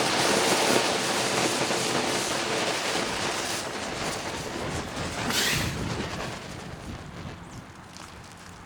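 Smoke balls burning with a steady hiss that slowly fades as they burn down.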